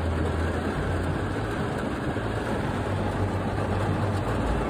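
Heavy rain falling on a truck's roof and windows, heard from inside the closed cab, with a steady low hum underneath.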